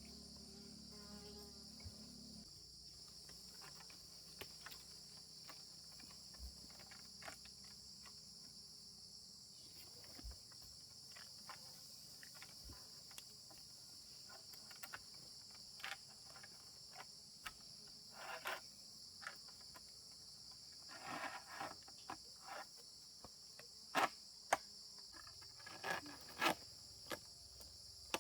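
Steady high chirring of crickets and other insects, with scattered short clicks and knocks that grow louder and more frequent near the end.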